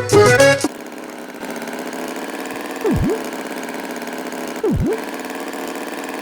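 Accordion music cuts off about half a second in, then an engine idles steadily with a fast even flutter. Twice, about two seconds apart, a quick swooping tone dips in pitch and rises back.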